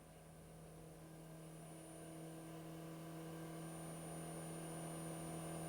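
Single-engine Cessna's piston engine heard faintly over the headset intercom, a steady hum that grows gradually louder as power comes up for the takeoff roll of a touch-and-go.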